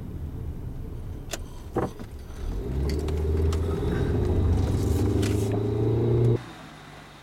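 Car engine heard from inside the cabin, a low rumble that builds into a louder, slowly rising hum as the car accelerates from about two and a half seconds in, then cuts off suddenly near the end. Two sharp clicks come shortly before the acceleration.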